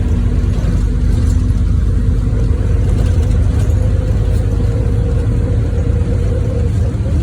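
NefAZ 5299 city bus under way, heard from inside the cabin: a steady low engine and road rumble with a faint steady whine above it that fades out near the end.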